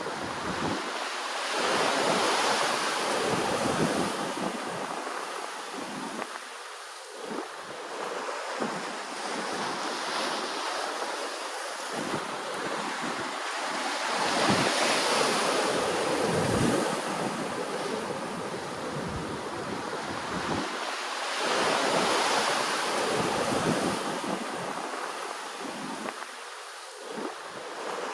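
Ocean waves washing ashore, the surf swelling and falling away every several seconds, with three stronger surges.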